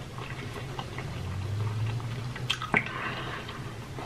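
Close-miked wet chewing of a sea scallop: soft squishy mouth sounds with small scattered clicks, two of them sharper about two and a half seconds in, over a faint steady low hum.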